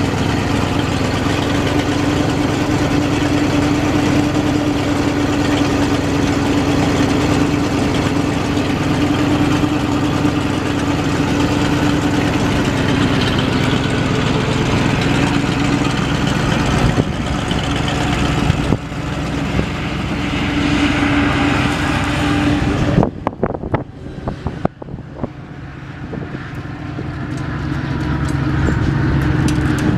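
1968 Chevrolet 60 grain truck's engine running at a steady pull. A bit past twenty seconds in it drops off sharply with a few knocks, then builds back up near the end.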